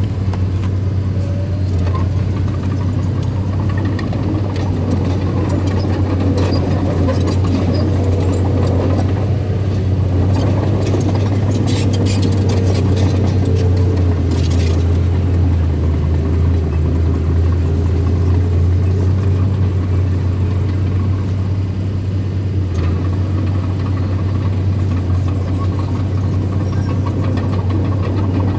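Heavy machinery engine running steadily with a low, droning hum that deepens for a few seconds midway, with scattered clicks and rattles from the machine working.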